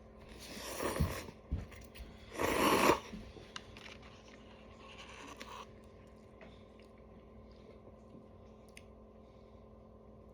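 A person eating cup noodles close to the microphone: chewing and mouth sounds, with two louder bursts in the first three seconds, then quieter chewing.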